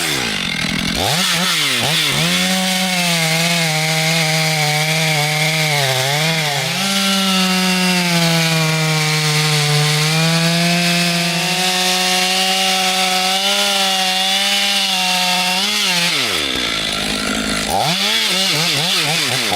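Chainsaw running at full throttle, cutting into a large tree trunk. Its engine note holds steady under load with brief dips. Near the end it drops off for about a second and a half, then revs back up.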